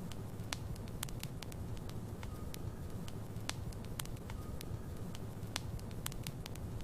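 Wood logs burning in a fireplace: irregular sharp crackles and pops, roughly two a second, over a steady low rumble of the flames.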